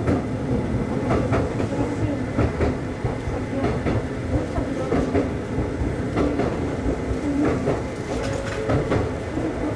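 Konan Railway 7000 series electric train running along single track, heard from inside the front car: a steady rumble with its wheels clicking over rail joints in an uneven rhythm.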